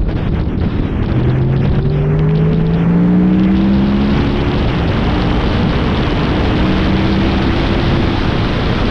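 Honda VFR800 VTEC's V4 engine accelerating, its pitch rising for about three seconds, then holding steady at cruising speed. A heavy rush of wind on the microphone runs under it.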